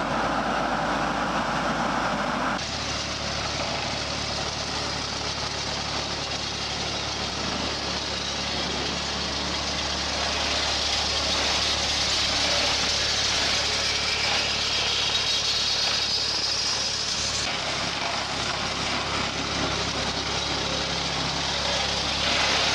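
Heavy machinery engine running steadily. The sound changes abruptly about two and a half seconds in and again about five seconds before the end.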